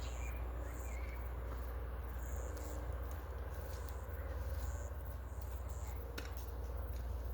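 An insect chirping: short, high-pitched chirps repeated at irregular intervals, over a steady low rumble.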